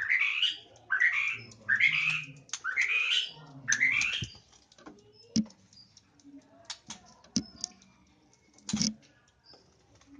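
White-rumped shamas calling: five harsh rising calls about a second apart, then scattered sharp ticks for the rest of the time.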